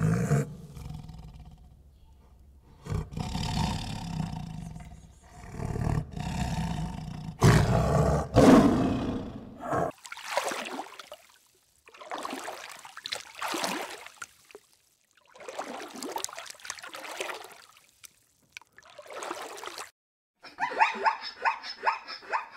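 An animal's deep roaring calls in several bouts, then shorter separate calls, and near the end a quick run of higher, pulsed calls.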